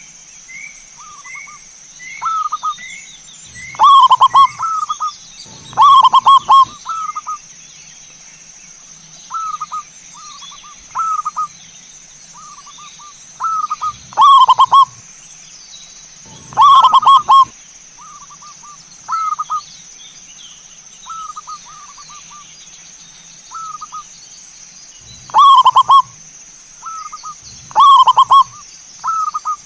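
Zebra dove (perkutut) singing its staccato cooing song in repeated phrases, several of them loud and close with softer phrases between. A short run of small rising chirps from another bird comes early on, over a steady high-pitched hum.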